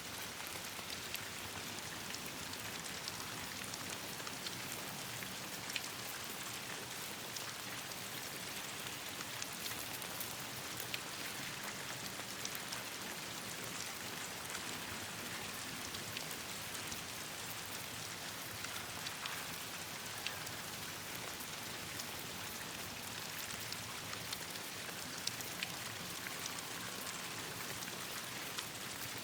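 Steady rain falling on leaves and ground, a hiss with many scattered small ticks of drops, mixed with occasional sharper pops and crackles of a campfire burning in the rain.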